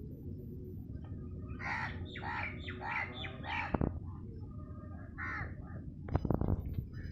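Crows cawing: a quick run of about five caws, then a couple more a little later. A sharp knock comes midway, and a short burst of louder knocks near the end.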